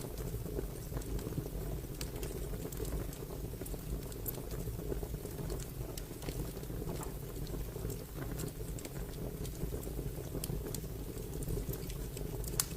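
Wood fire burning: a steady low rumble of flames with irregular sharp crackles and pops.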